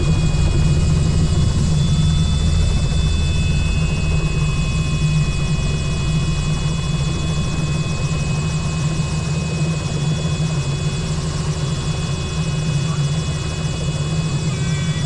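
Helicopter running steadily: a loud, even low rotor and engine drone with a steady high turbine whine over it.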